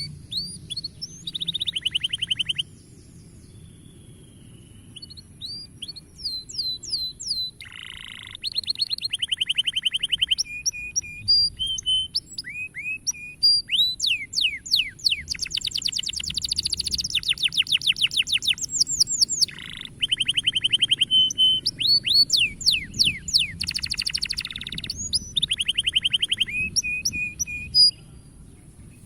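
Domestic canary singing a long, loud song of fast trills, rapid runs of repeated notes and rising whistles, broken by short pauses; it stops near the end. A faint steady high-pitched hiss runs underneath.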